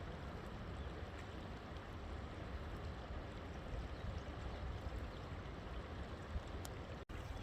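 River water flowing steadily: a continuous rushing with a strong low rumble, cutting out for an instant about seven seconds in.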